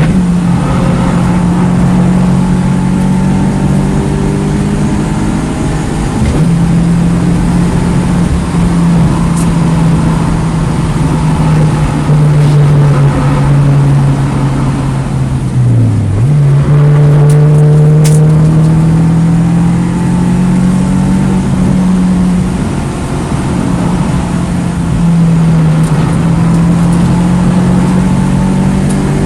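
2009 Mini Cooper S's turbocharged 1.6-litre four-cylinder engine pulling hard around a track, heard from onboard. The pitch rises and falls gradually, then drops sharply about halfway through and climbs again.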